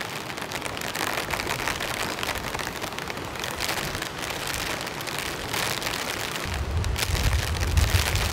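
Heavy rain falling as a steady, dense hiss of drops. About six and a half seconds in, a deep low rumble joins it.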